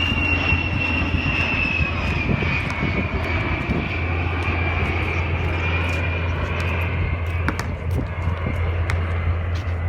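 Fixed-wing aircraft engine running as an airplane flies past, a steady rush with a high whine that slowly falls in pitch.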